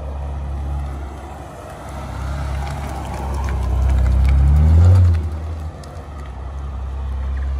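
Nissan Skyline R34 sedan's engine running as the car drives a tight turn, revving up to a peak about five seconds in and then dropping back, on a test drive of a freshly fitted limited-slip differential.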